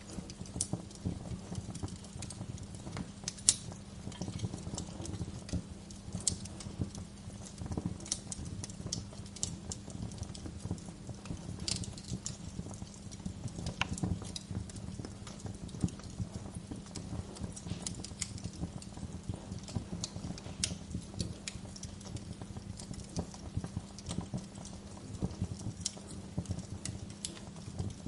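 Wood fire crackling: irregular sharp pops and snaps over a steady low rumble, with one louder pop about three and a half seconds in.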